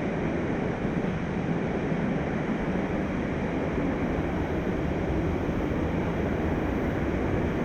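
Mountain stream rushing over rocks: a steady noise of flowing water.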